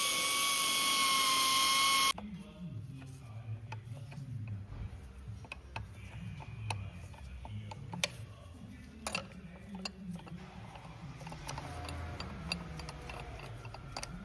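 Handheld power tool running with a steady high whine, cutting off suddenly about two seconds in. Then come scattered light clicks and clinks of metal parts being handled.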